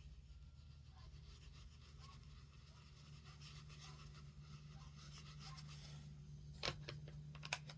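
Faint rubbing of a blending brush working ink into watercolor cardstock, over a low steady hum, with a couple of sharp clicks near the end.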